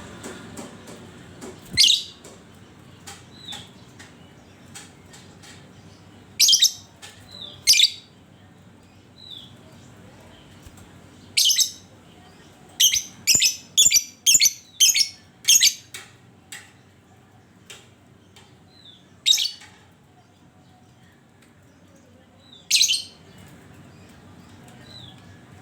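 Lovebird giving sharp, shrill squawking calls: single calls spaced a few seconds apart, with a quick run of about eight calls around the middle.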